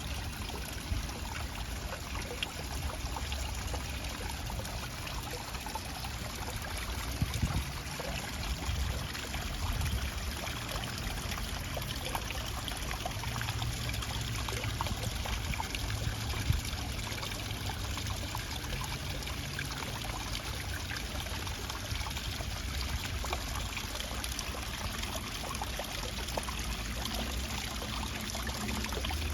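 Water flowing and trickling steadily, like a stream, with a few brief louder clicks.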